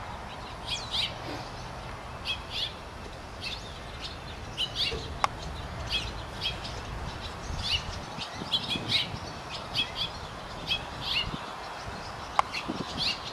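Birds chirping: short, high chirps repeat about once a second, often in quick pairs. Two sharp clicks come about five seconds in and again near the end.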